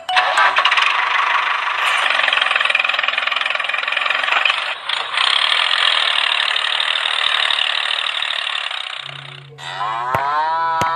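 Small motor running with a dense, rattling buzz that cuts off about nine and a half seconds in. Near the end a bleat begins over a low hum.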